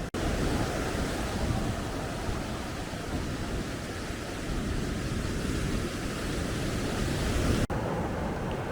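Surf breaking on a sandy beach in strong onshore wind, with wind buffeting the microphone. The sound drops out for an instant just after the start and again near the end.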